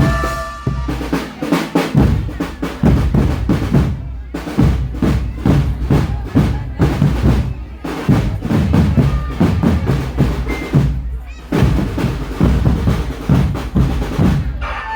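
Marching drum band playing a percussion passage: snare drums and bass drums beating in quick strokes and rolls. A pitched melody line stops about a second in, leaving the drums alone.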